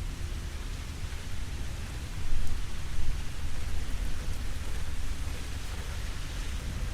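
Steady rain falling, an even hiss of drops, over a deep low rumble that swells briefly about two seconds in.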